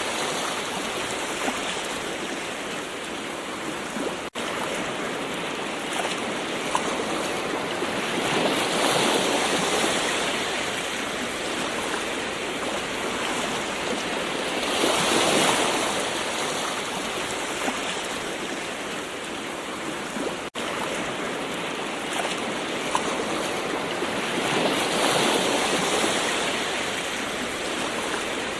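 Gentle ocean waves washing in and drawing back, the surf swelling and easing every six to ten seconds. There are two momentary dropouts in the sound.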